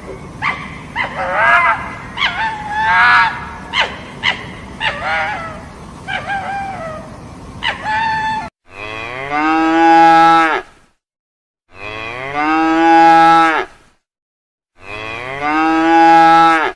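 A cow mooing three times, each moo a long, even call of about two seconds with silent gaps between. Before the moos, about eight seconds of short, high animal calls and clicks over a hissy background.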